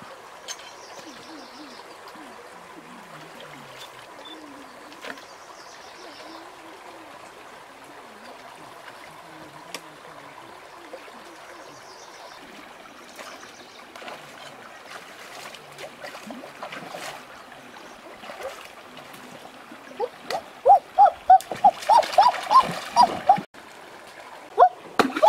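River water trickling and running steadily. Near the end, a quick, loud series of short high-pitched calls, about three or four a second, breaks in, pauses briefly and starts again.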